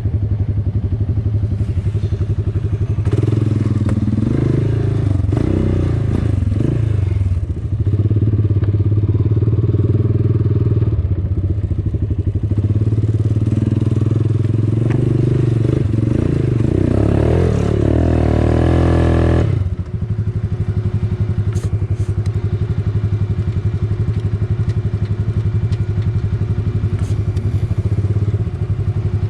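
Quad bike (ATV) engine running and revving up and down, with a long climb in revs that cuts back sharply about two-thirds of the way through, then running steadier at lower revs.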